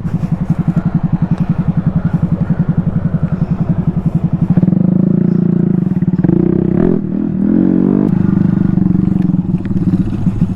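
Small single-cylinder mini motorcycle engine running under way with a fast, even exhaust pulse. The throttle opens about halfway through, and the pitch rises and wavers for a few seconds before it settles back to steady cruising.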